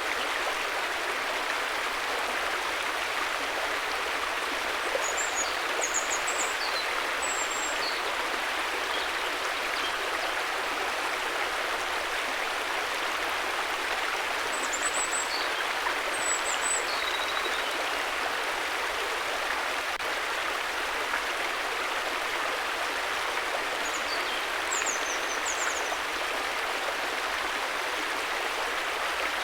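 River water flowing with a steady rushing, with a few brief high-pitched chirps in three short clusters over it.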